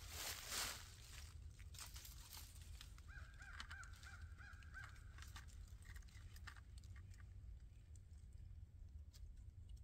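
Quiet woodland with a brief rustle near the start, then a distant bird calling a quick run of about seven short notes, roughly three a second, from about three seconds in.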